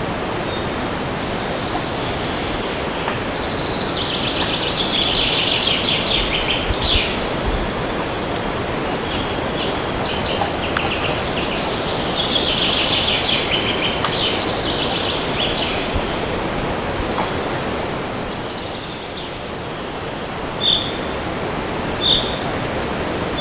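Wind blowing steadily through forest trees, with songbirds singing over it: two long, rapid trills, then short single chirps about every second and a half near the end.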